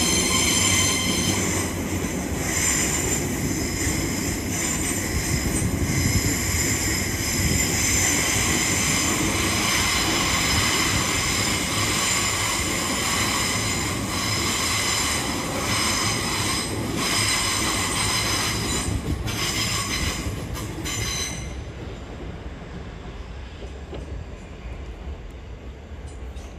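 Passenger train moving along the platform tracks with a loud rumble and high, steady wheel squeal from the rails. The squeal stops sharply about three-quarters of the way through, leaving a quieter low rumble.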